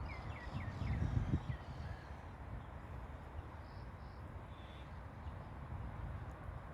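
A bird calling: a quick run of about six short, high notes in the first second and a half, then a few fainter ones.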